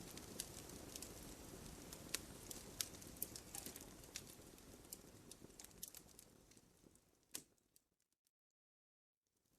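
Campfire crackling, with a steady low rush and frequent sharp pops of burning wood. The sound fades away about seven seconds in, after one last loud pop, and drops to silence for about a second and a half before fading back in.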